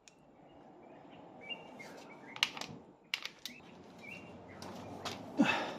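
Digital torque wrench tightening wheel nuts to a preset 120 Nm, giving several short, high, steady beeps as the set torque is reached. Sharp clicks and knocks come from the wrench and socket on the nuts.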